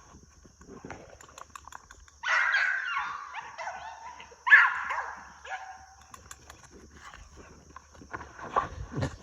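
Young dog vocalising: two drawn-out, pitched calls about two seconds apart, the second louder, the chattering 'talking' of a vocal puppy rather than sharp barks.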